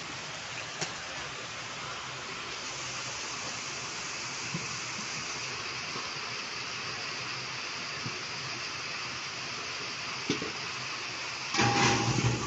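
Steady hiss of heavy rain falling on flooded ground, with a few faint knocks. Near the end a brief, louder sound cuts in over it.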